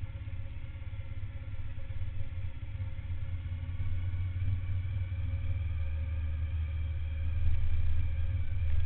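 Suzuki SV1000N's 90-degree V-twin engine running at low revs as the bike rolls slowly along. The engine note is a steady low rumble that grows louder toward the end.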